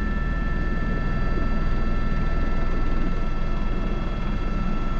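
Airbus H125 (AS350 B3) helicopter in steady flight: constant drone of its single turbine and rotors, with a steady high whine over it.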